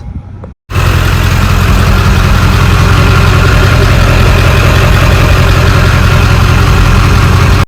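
Ford 7.3L Power Stroke turbo-diesel V8 idling steadily, loud and close to the microphone, starting abruptly under a second in.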